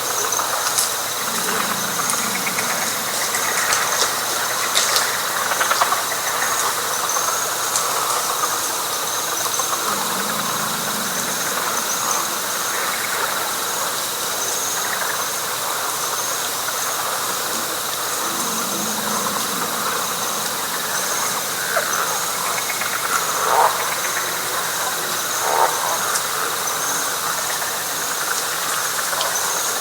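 Night chorus of frogs in wet flatwoods: a dense, continuous chorus with a steady high trill and a faster pulsing call above it. A low croak comes about every eight seconds, and two short falling calls are heard a little past the middle.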